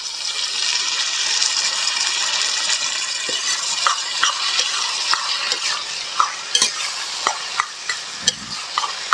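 Onions and freshly added tomato frying in hot oil in a kadhai over a fire, a steady sizzle. From about four seconds in, a ladle is stirring, with sharp clicks and scrapes against the pan.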